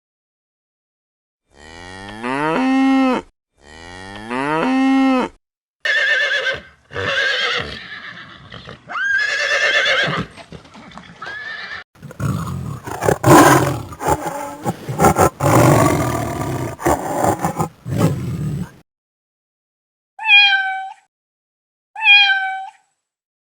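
A run of different animal calls one after another: two long low calls rising in pitch, then several higher calls, then about six seconds of loud roaring, and near the end two short domestic cat meows.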